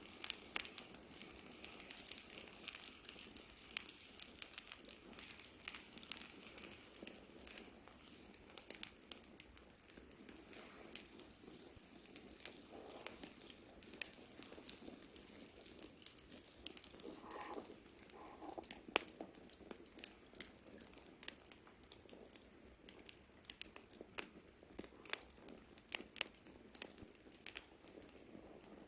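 Campfire wood burning, crackling steadily with many irregular sharp pops and snaps over a soft hiss.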